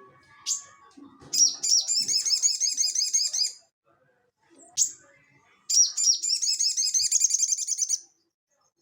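A sogon (crimson sunbird) singing its rapid 'ngeleper' song. Sharp high chips are followed twice by fast, high trills of repeated notes, each lasting about two seconds.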